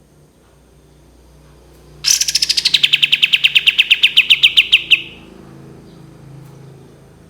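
A kapas tembak songbird's long rapid trill, about ten sharp notes a second for some three seconds: it starts higher, settles to a steady lower pitch and stops suddenly.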